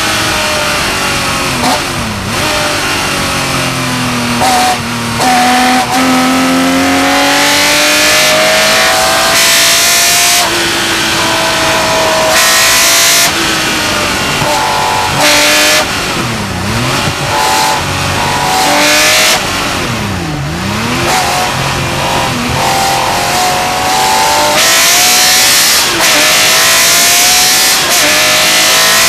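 Porsche 911 Carrera RSR flat-six racing engine heard from on board, revving hard and changing gear again and again: the pitch climbs through each gear and drops at each shift, with quick dips and recoveries where it brakes and downshifts for corners.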